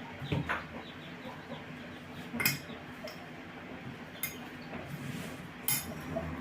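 A few sharp clicks and light knocks of hard objects being handled, spaced over several seconds, the loudest about two and a half seconds in.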